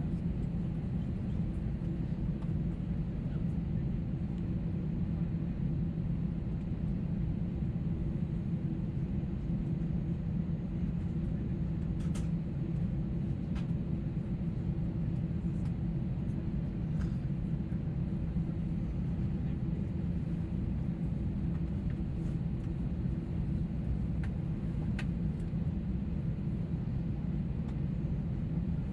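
Steady rumble of an Airbus A321neo airliner's engines and airflow heard inside the cabin, with a steady low hum and a few faint ticks.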